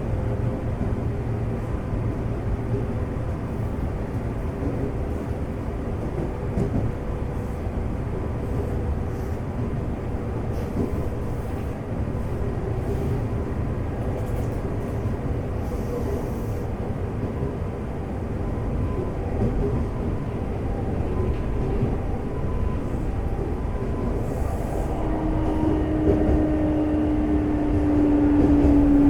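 Running noise inside a Semboku 5000 series electric train car: a steady rumble of wheels on rail with the air conditioning on. Near the end a loud whine from the Hitachi GTO VVVF inverter and traction motors comes in and slowly falls in pitch.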